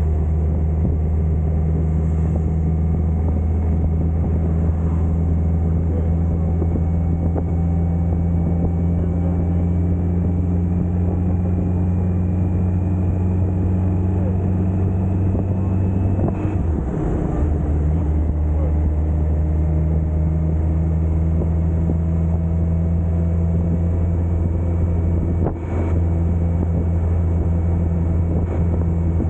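2010 Kawasaki Concours 14's 1400 cc inline-four engine running steadily under way, its pitch slowly rising. It breaks briefly about 16 seconds in and again dips briefly about 25 seconds in.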